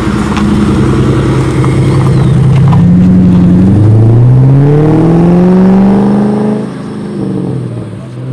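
Ford Mustang V8 engine running loud, then revving up with a steadily rising pitch for about three seconds before letting off sharply near the end.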